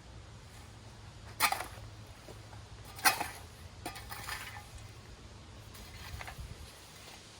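Shovel working dirt: a few short scrapes and knocks as dirt is scooped and dropped on a muddy patch, the two loudest about a second and a half and three seconds in, fainter ones later.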